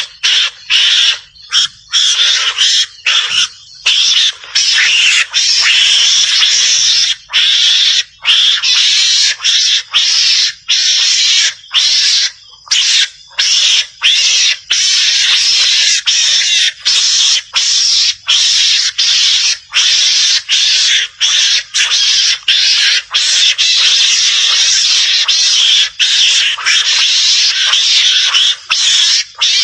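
Javanese mongoose (garangan) calls played as a hunter's lure: a dense, high, noisy chatter that runs almost without pause, broken by many brief gaps.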